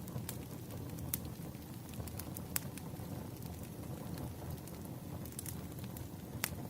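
Burning firewood crackling, with irregular sharp pops over a steady low rumble of the fire; the loudest pops come about a second in, a little past two and a half seconds, and near the end.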